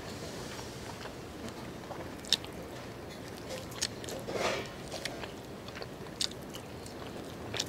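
A person chewing and biting braised pork meat off a rib bone, close to the microphone, with wet mouth smacks and sharp clicks scattered through it and a louder, noisier smack a little past the middle.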